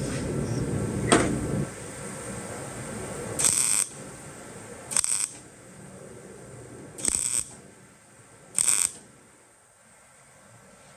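Welder striking four short bursts while tacking a steel sway bar bracket, each burst under half a second and about one and a half to two seconds apart. Before them a steady hum runs for about a second and a half, with one sharp click about a second in.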